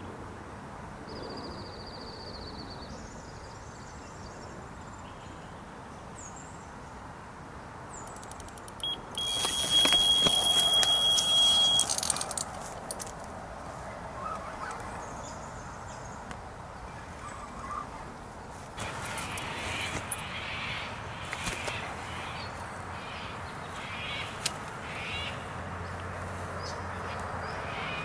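Electronic carp bite alarm sounding one steady high tone for about three seconds, starting about nine seconds in, over loud rustling noise: a fish running with the bait.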